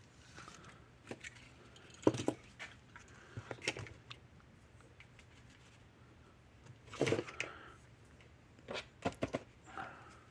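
Scattered light clicks and taps of small tools and parts being handled at a workbench while wires are soldered on. The loudest come about 2 and 7 seconds in, with a quick run of three or four near the end.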